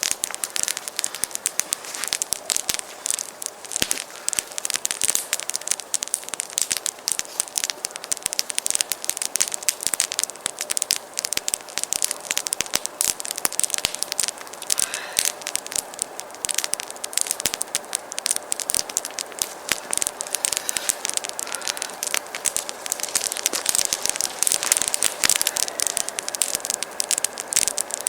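Wood campfire crackling, with a dense, continuous stream of small sharp pops.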